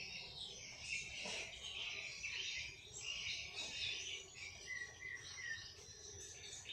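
Several small songbirds chirping and twittering in quick, overlapping high calls.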